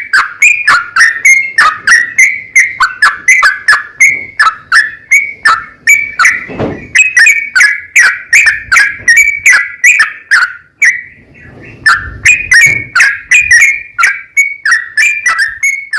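Yellow-vented bulbul (trucukan) singing a long rapid run of short, chattering whistled notes, about three a second, with a brief break about two-thirds of the way through.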